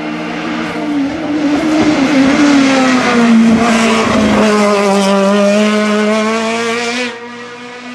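Hillclimb race car passing at speed, its engine note loud and high, dropping in pitch as it goes by, then falling away sharply about seven seconds in.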